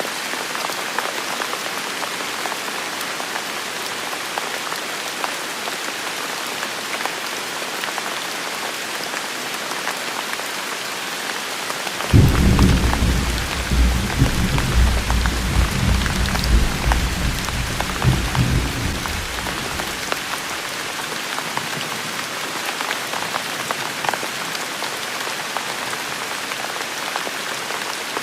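Steady rain falling. About twelve seconds in, a low rumble of thunder breaks in suddenly, rolls on unevenly for about eight seconds, then fades.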